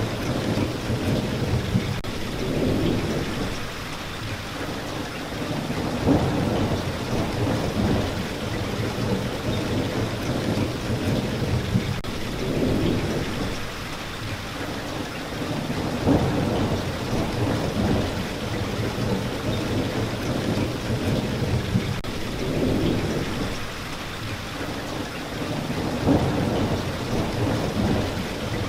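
Steady rain with low rumbles of thunder that swell and fade every few seconds.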